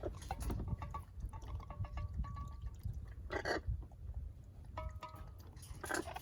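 Parrots calling: short, stepped whistle-like notes, with a louder harsh call about three and a half seconds in and again near the end, over a steady low rumble.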